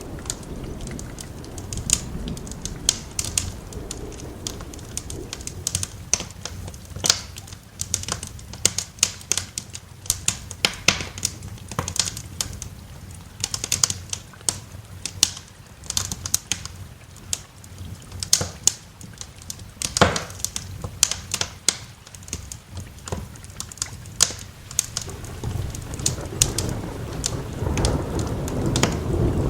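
Wood fire crackling with frequent sharp pops and snaps, over soft steady rain. A low thunder rumble fades at the start and another builds near the end.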